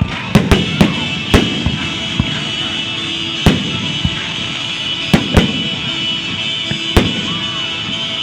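Fireworks display: shells bursting with sharp bangs, a quick cluster of four or five in the first second and a half, then single bangs every second or two. Music plays underneath.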